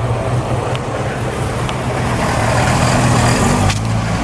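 Car engine running with a steady low hum over a hiss of noise, growing louder about two seconds in and dropping back suddenly near the end.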